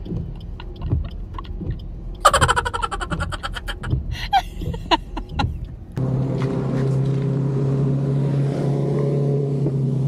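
Irregular clicks and knocks with a brief shrill burst about two seconds in. Then, from about six seconds, the steady drone of a Suzuki S-Presso's three-cylinder engine and road noise heard from inside the moving car.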